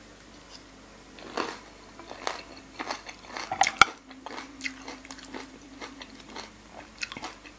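Close-up mouth sounds of a person chewing a bite of soy-sauce-marinated raw salmon with toppings: irregular wet smacks and small crunches.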